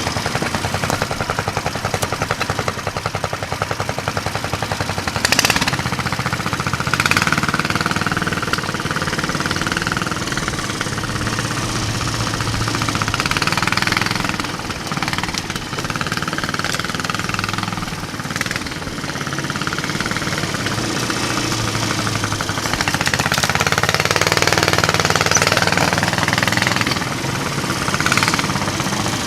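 Mini bike trike's 420 cc single-cylinder four-stroke engine running under load as it is ridden, its pitch rising and falling as the throttle opens and closes. A few sharp knocks come through over it.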